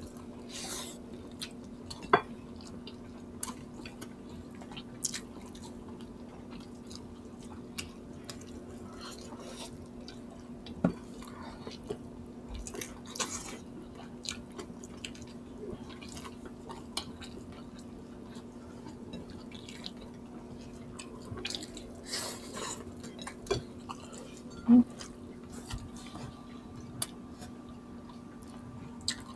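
Close-up eating sounds of people chewing chicken and rice by hand: wet chewing and lip smacks with scattered short clicks, the sharpest about two seconds in and again near the end, over a steady low hum.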